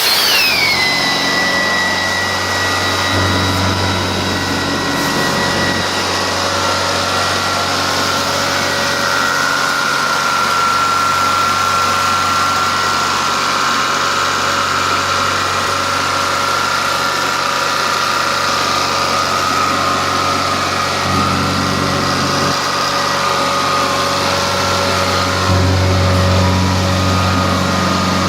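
Prochem Performer truck-mount carpet cleaning machine running, its 24 hp Onan engine and vacuum blower making a loud, steady rushing drone. A whistle falls sharply in pitch right at the start and then holds steady, and the low engine note swells a few times.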